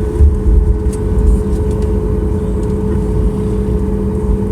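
Jet airliner cabin noise on the ground before departure: a steady engine hum with a held tone over a low rumble that bumps now and then.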